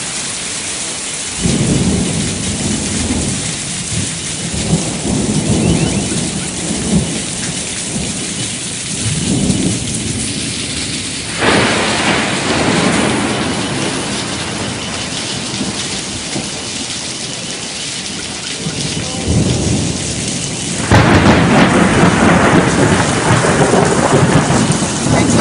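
Heavy rain falling steadily, with low rolling thunder coming and going; the sound swells suddenly about halfway through and again, loudest, near the end.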